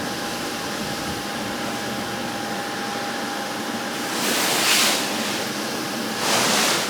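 Steady background hum with a faint steady tone, broken by two loud bursts of hissing noise: one about a second long a little past four seconds in, and a shorter one near the end.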